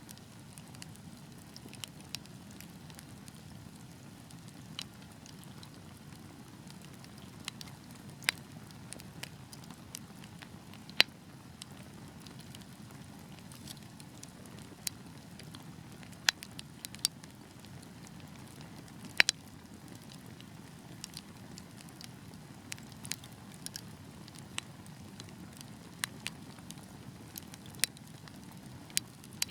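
Wood fire burning with a low steady rumble of flames and irregular sharp crackles and pops, a second or two apart, a few of them much louder than the rest.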